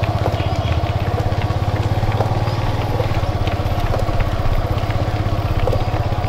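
Motorcycle engine running steadily at low speed, with a fast, even chugging pulse.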